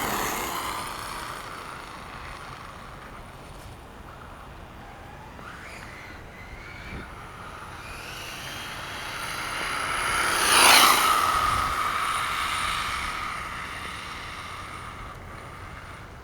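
Engine of a 1/5-scale radio-controlled monster truck revving, its pitch rising about five seconds in, then getting louder as the truck passes close about eleven seconds in and fading off as it drives away.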